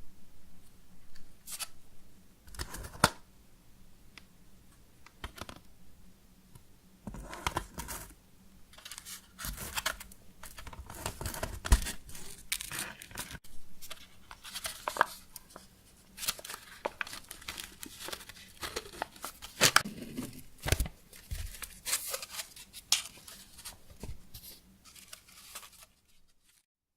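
Close-up tearing and crinkling handling sounds in irregular bursts, with a few sharp snaps, stopping about a second before the end.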